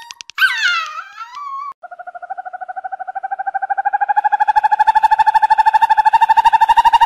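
A dog whines in short high calls that slide up and down for about a second and a half. Then comes a long, even trill on one pitch, made of rapid pulses and growing louder, the call of an owl.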